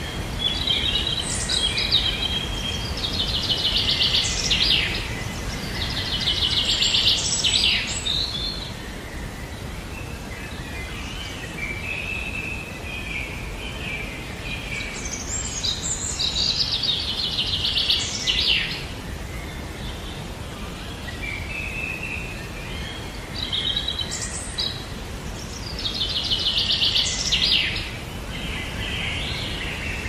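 Birds singing in three bouts about ten seconds apart, each with a fast high trill, over a steady low background noise.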